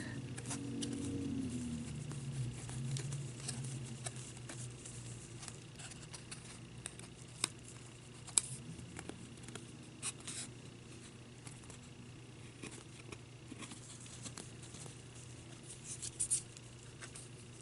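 Faint handling sounds from crafting at a small table: scattered light clicks and soft rubbing as a napkin-decoupaged ornament is worked by hand.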